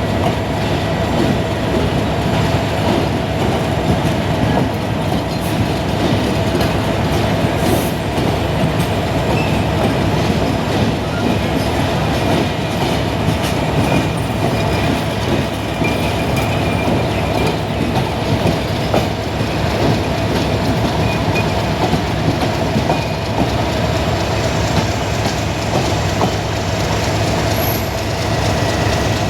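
The Silkcity Express passenger train's coaches rolling steadily along the track as it leaves the station, wheels clacking over the rail joints, with a steady ringing tone under the rumble.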